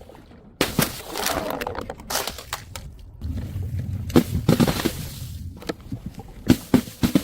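Something crunchy being crushed and breaking: irregular sharp cracks and crunches begin about half a second in, grow denser from about three to five seconds in, and end with a quick cluster of sharp cracks.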